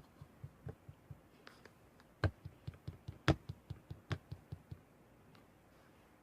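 A quick run of soft taps and clicks, with two louder knocks a second apart near the middle.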